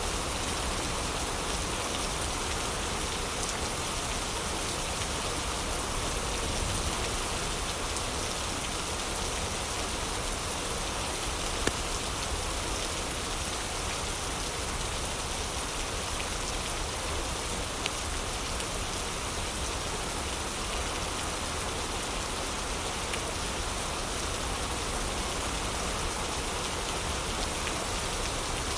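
Steady heavy rain falling as an even hiss, with two sharp pops near the middle.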